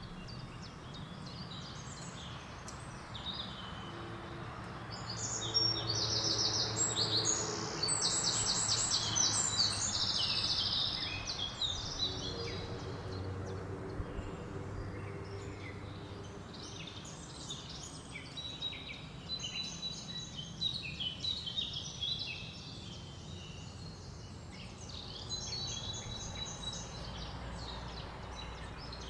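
Several forest birds singing: chirps and rapid trilled phrases, busiest and loudest about five to eleven seconds in, over a steady hiss of wind in the leaves.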